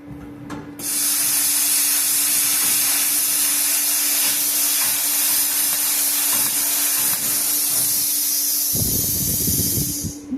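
Bestarc plasma cutter torch firing: a loud, steady hiss that starts about a second in and cuts off abruptly near the end.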